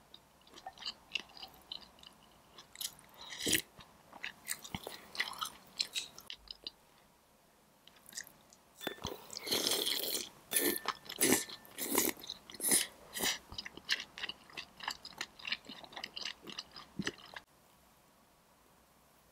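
Close-miked eating: a person chewing food with many sharp wet mouth clicks, a louder dense rush of sound about nine seconds in as food goes into the mouth, then more chewing that stops about two seconds before the end.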